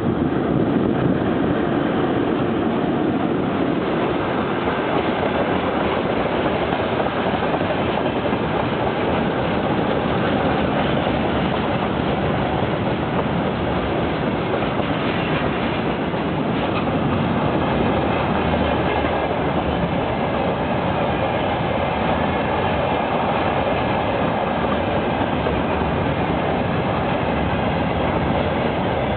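Freight train hauled by a VL10U electric locomotive passing close by: a steady, loud rumble of the wagons' wheels on the rails, with clatter over the rail joints.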